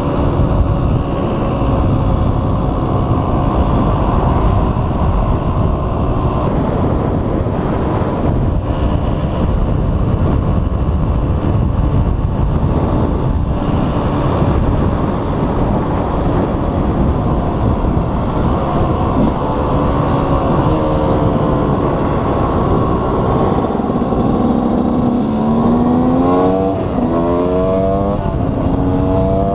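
KTM 125 EXC's single-cylinder two-stroke engine running as the bike is ridden at an easy pace, with wind rushing over the microphone. Near the end the engine revs up in several quick rising pulls, one after another, as it is shifted up through the gears.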